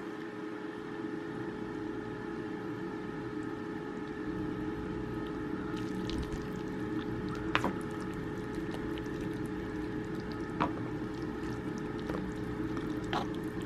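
A steady motor hum holding a few fixed tones, with three light clicks in the second half.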